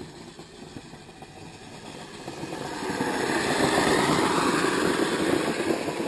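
Kyosho Blizzard RC snowcat's electric motor and tracks running, growing louder from about two seconds in and staying loud to the end.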